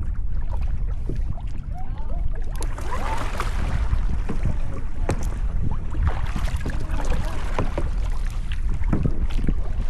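Wind rumbling on the microphone over water splashing from a sit-on-top kayak being paddled, the splashes swelling every couple of seconds with the paddle strokes.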